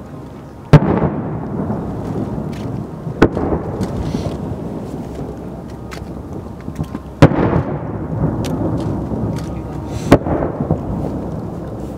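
Aerial firework shells bursting overhead: four loud bangs a few seconds apart, each followed by a long rolling echo, with smaller pops and crackles in between.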